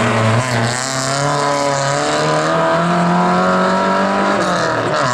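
Rally car engine running hard at high revs, loud, its pitch stepping up and down a few times as the driver works the throttle and gears.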